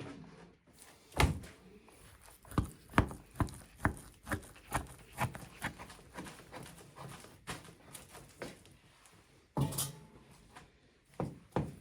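A run of irregular knocks and taps, about two or three a second, with a short louder clatter near the end before the knocking resumes.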